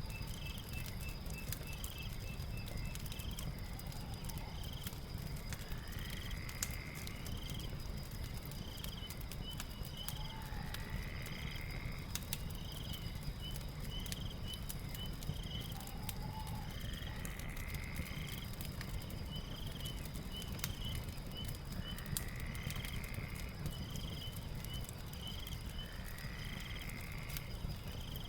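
Night ambience of a crackling fire, with many sharp pops over a low rumble, under a steady high trill and night-animal calls that repeat every few seconds, some as rising sweeps.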